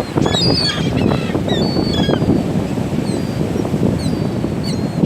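A flock of seagulls calling, many short overlapping high cries, thickest in the first half and thinning out later, over a steady rush of wind on the microphone.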